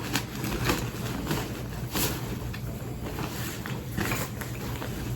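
Handling noise from soft toiletry pouches being moved and packed into a bag: a run of irregular short rustles and knocks over a steady low hum.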